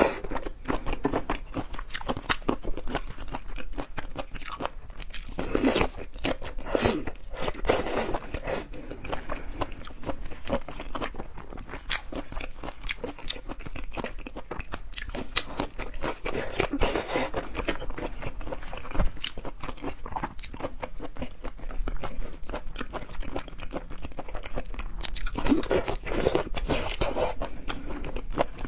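Close-miked eating of seafood: continuous wet chewing and crunching, with louder bursts of crunching a few times.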